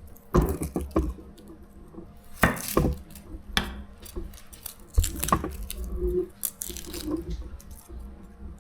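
Pestle pounding garlic and chili in a mortar: a string of irregular, wet-sounding strikes.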